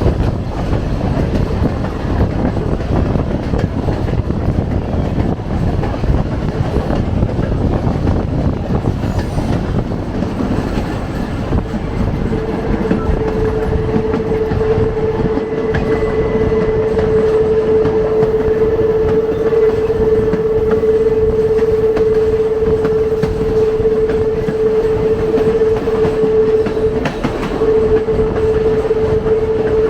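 Passenger rail car rolling along the track with a steady rumble and wheel clatter. About twelve seconds in, a single steady tone joins and holds, with one brief break near the end.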